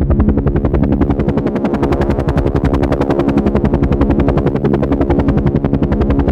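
Helicopter running steadily, its rotor beating in a fast, even chop over a low engine drone.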